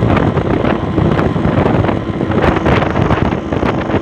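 Heavy wind buffeting on an unshielded microphone on a moving Yamaha RX-King, with the bike's two-stroke single-cylinder engine running underneath.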